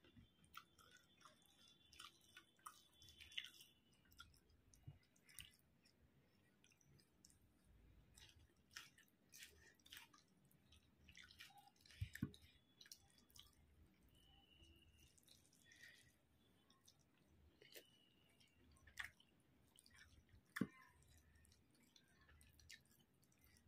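Quiet chewing and mouth smacks of a person eating rice and chicken curry by hand, with soft wet squelches of fingers mixing the rice on the plate. Scattered small clicks throughout, with two sharper ones about 12 and 20 seconds in.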